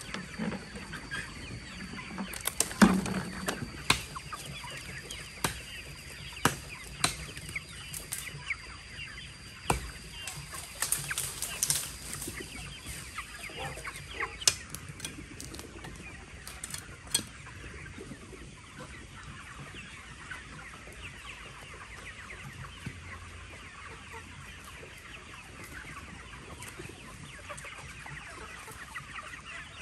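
Chickens clucking, with many sharp clicks or knocks scattered through, and a faint steady high whine that stops about halfway.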